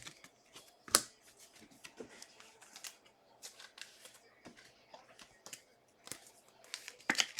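Trading cards and packs being handled, with light scattered clicks and rustles, a sharper click about a second in and a few quick clicks near the end.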